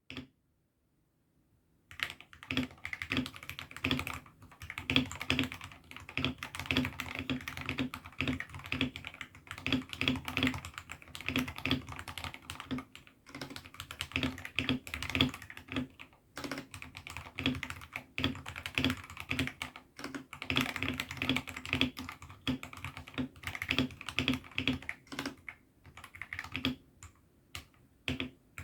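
Typing on a 68-key hot-swappable mechanical keyboard fitted with AKKO Sakura switches: a steady, fast run of keystroke clacks that starts about two seconds in.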